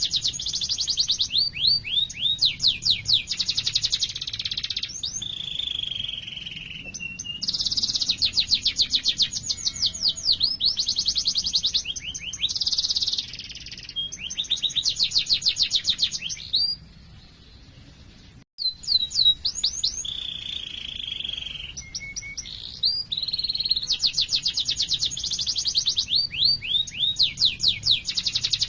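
Domestic canary singing a long rolling song: fast trills of rapidly repeated notes alternating with quick sweeping chirps. There is a short break about two-thirds of the way through.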